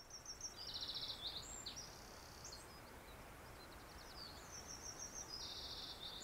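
A small bird singing a high trilled song phrase, then repeating a near-identical phrase about four seconds later, over a faint steady background hiss.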